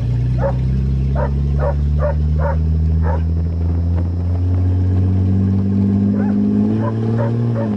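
1982 Toyota Cressida's engine pulling under acceleration, its pitch rising steadily, then dropping near the end as the automatic transmission shifts up. A dog yips repeatedly over it, in a run of short calls at the start and again near the end.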